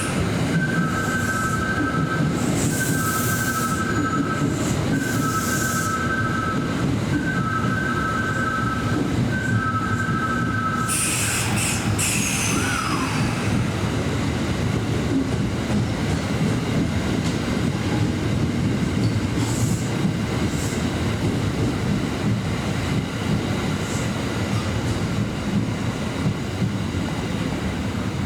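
Kintetsu Nara Line electric train running through the station with a steady rumble and wheel squeal. A two-tone electronic warning signal repeats about every second and a half and stops about eleven seconds in, just as a short sharp hiss sounds.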